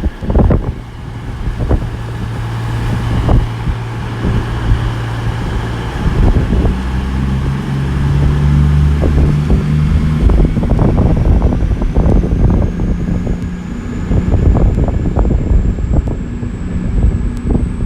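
Class 221 Super Voyager diesel-electric train pulling away: its diesel engines step up in pitch and loudness about six seconds in and keep running hard, with a thin whine rising slowly in pitch over the second half. Wind buffets the microphone throughout.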